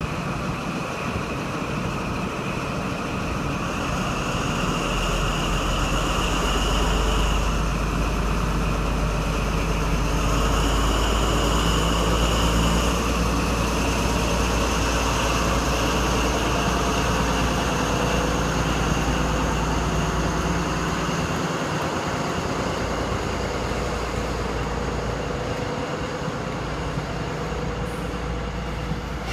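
Class 43 HST diesel power cars pulling out and accelerating away. A low engine drone with high whining tones over it builds up, holds loud for a while, then slowly fades.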